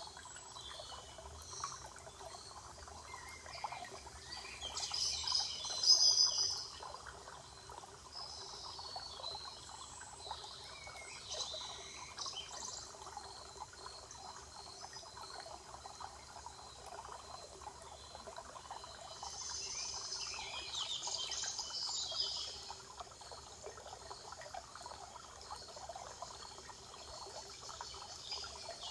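Spring forest ambience: a stream trickling steadily, with songbirds singing in short spells, the loudest about five seconds in and again around twenty seconds in.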